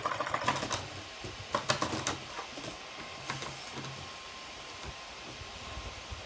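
Computer keys being pressed: bunches of quick clicks, the busiest in the first second, more about a second and a half later, then a single click.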